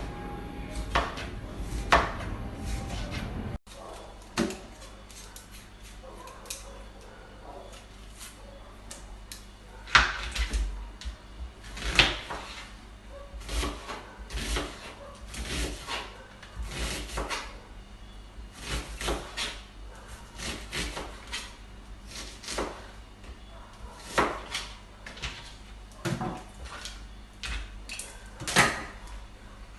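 Kitchen prep sounds: irregular knocks and clatter of cookware, utensils and cupboards being handled on a counter. There is a low rumble at first that cuts off abruptly a few seconds in.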